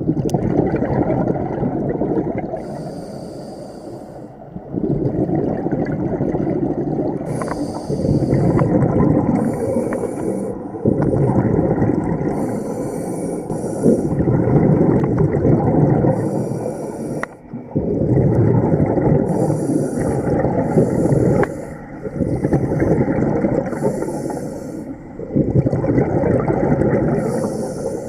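Scuba diver breathing through a regulator underwater: a short high hiss on each inhale, then a long bubbling rush on each exhale, repeating every few seconds.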